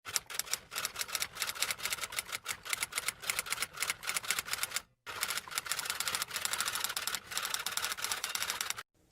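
Rapid, uneven typing keystrokes clicking several times a second, in two runs with a brief break about five seconds in.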